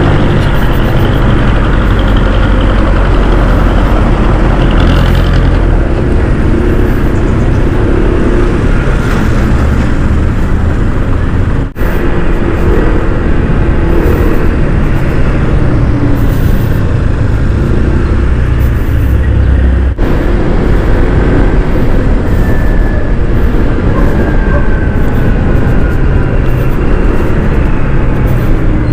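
Riding noise from a Honda ADV 160 scooter in city traffic: a steady rush of wind and road noise over the scooter's single-cylinder engine, with other vehicles around it. The sound briefly cuts out twice, about twelve and twenty seconds in.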